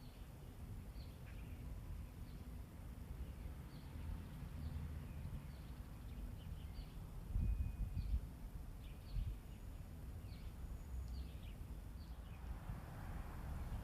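Small birds chirping, with many short high calls scattered throughout, over a low rumble of wind on the microphone that swells briefly about halfway through.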